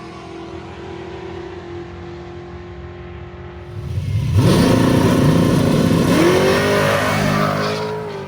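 Drag car engines idling steadily, then about four seconds in a car launches hard and its engine revs up sharply, the pitch climbing steeply. The pitch dips and climbs again before fading near the end.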